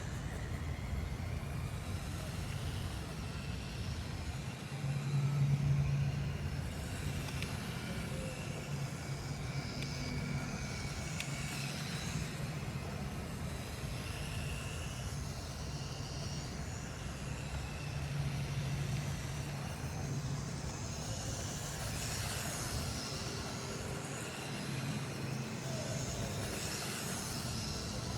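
BuWizz electric motor and plastic gears of a motorized LEGO Technic McLaren F1 car driving, a whine that rises and falls repeatedly with speed over a steady low rumble.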